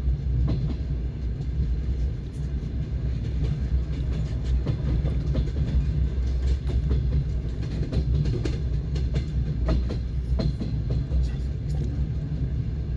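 Passenger train wheels clattering over the rails: a steady low rumble with many irregular sharp clicks and knocks.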